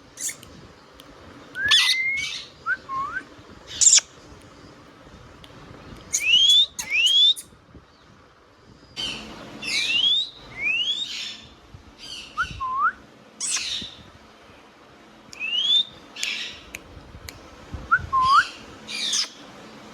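Indian ringneck parakeet calling: a series of short rising whistles and sharp chirps, in bursts every second or two, with a few lower whistled notes that dip and turn back up.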